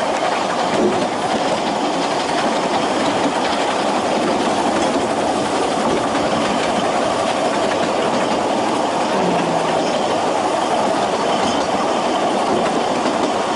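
Ffestiniog Railway narrow-gauge train running along the line: the steady noise of carriage wheels on the rails.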